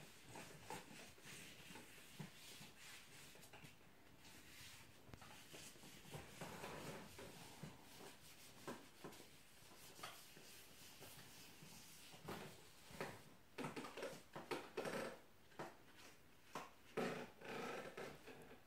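Faint rubbing and light scattered knocks from wiping soot off the glass door of a wood-burning stove by hand. The knocks come irregularly and grow more frequent near the end.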